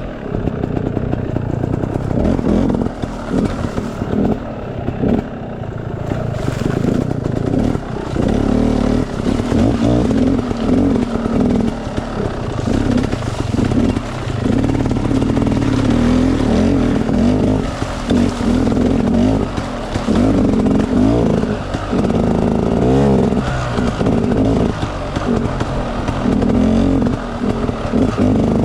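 Enduro dirt bike engine running on an off-road trail, its pitch rising and falling continually with the throttle.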